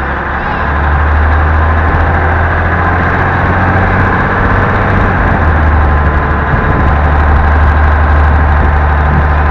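Diesel engine of an M923A1 military 5-ton 6x6 truck droning steadily while the truck is driven, its deep low hum getting louder about a second in and then holding steady.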